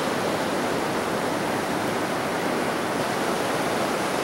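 Steady rushing noise, even across all pitches, with no tone or rhythm in it.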